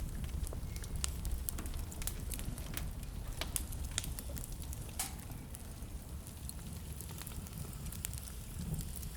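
Wood fire crackling in a fireplace, with irregular sharp pops and snaps, one louder pop about five seconds in, over a steady low rumble.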